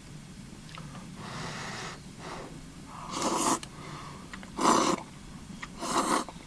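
Soba noodles being slurped: four airy slurps a second or so apart, the last three loudest.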